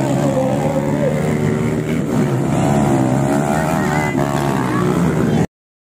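Trail motorcycle engines running on a dirt track, their pitch wavering up and down as the riders work the throttle. The sound cuts off suddenly near the end.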